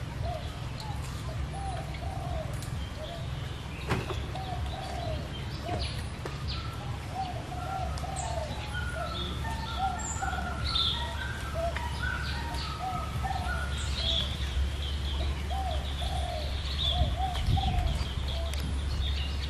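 Birds calling around the enclosure: many short chirping notes repeating at several pitches.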